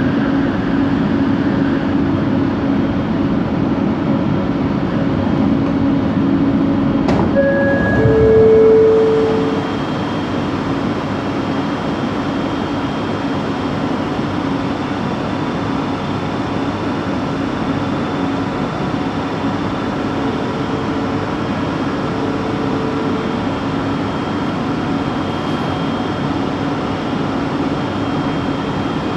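Inside a light-rail train coach running along the line: a steady drone of wheels and traction motor with a constant humming tone, the weird motor noise this coach is known for. A sharp knock comes about seven seconds in, and the sound drops somewhat in loudness shortly after.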